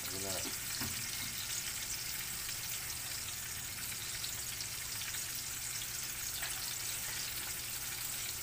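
Fish frying in hot oil in a pan, a steady sizzle with many small crackling pops.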